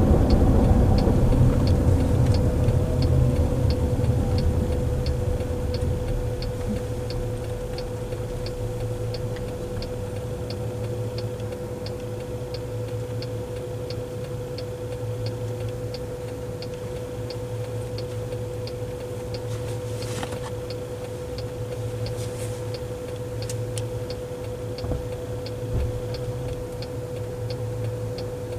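A car's turn-signal indicator clicking steadily, about two clicks a second, inside the cabin. Under it is road rumble that dies down over the first few seconds as the car slows, then a low steady cabin hum.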